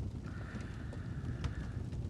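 Fireplace fire crackling with scattered sharp pops over a low steady rumble, with a soft breath from about a quarter second in to near the end.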